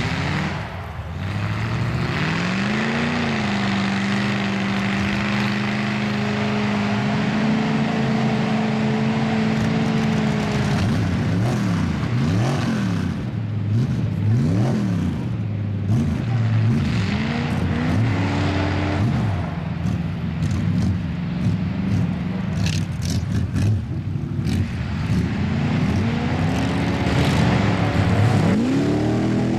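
Mud truck engine under heavy throttle: it winds up, holds a steady high pitch for several seconds, then revs rapidly up and down again and again as the driver works the throttle.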